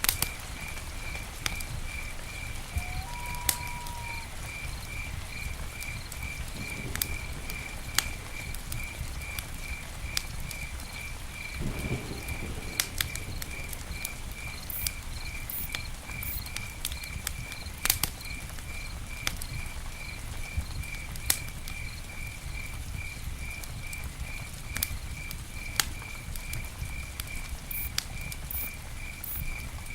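Campfire burning with a steady low rumble and scattered sharp pops and crackles. An insect chirps steadily at a high pitch about twice a second throughout, and one short whistled call comes about three seconds in.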